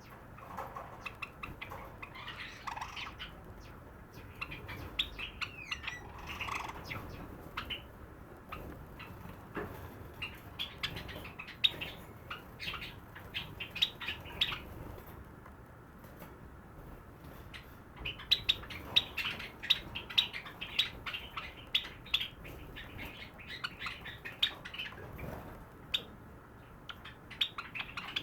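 A sakura Java sparrow singing: strings of quick, clicking, bell-like "pipo-pipo" notes, gathering into two longer, louder runs in the middle and the second half.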